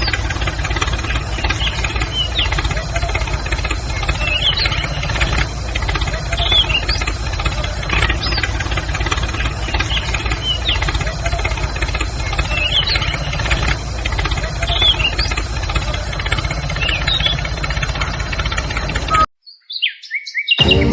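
An engine idling with a fast, even low rumble, birds chirping over it throughout. The engine sound cuts off abruptly about nineteen seconds in.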